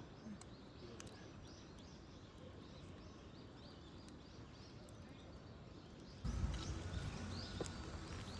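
Outdoor riverside ambience with small birds chirping in short, repeated high calls over a steady background hiss. About six seconds in, a louder low rumble starts suddenly.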